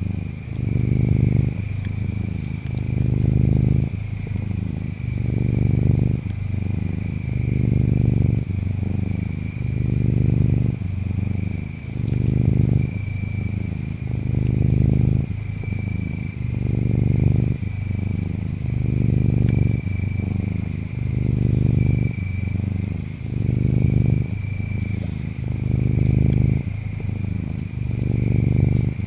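Ginger tabby cat purring loudly and rhythmically, swelling and easing about every two seconds with its breathing in and out. Behind it, insects chirp: a steady trill and intermittent high-pitched bursts.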